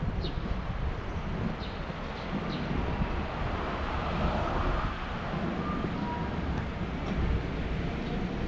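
Street traffic noise, with a vehicle passing and swelling about halfway through. A short two-note electronic beep comes about two-thirds of the way in.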